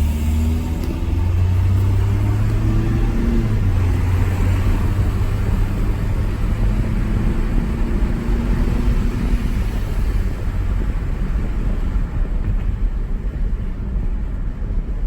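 A 2010 Ford Ranger pickup's engine and road noise heard from inside the cab while driving. The engine drone climbs in pitch over the first few seconds as the truck gathers speed, then holds steady before fading into the road rumble about ten seconds in.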